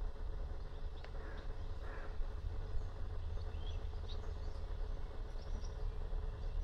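Small birds chirping a few short times over a steady low rumble of outdoor background noise.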